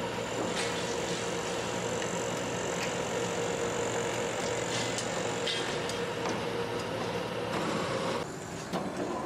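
Old Peco tower crane's machinery running: a steady electric motor hum with a high whine over it, which cuts off about a second before the end.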